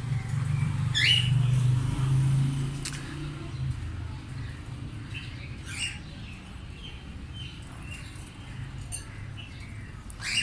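Small caged parrots chirping a few times with short rising calls, over a low steady hum that is strongest in the first few seconds.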